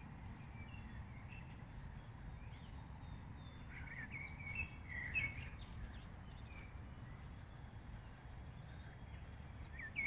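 Faint, scattered bird chirps over a steady low background rumble, the chirps mostly around four to five seconds in and again near the end.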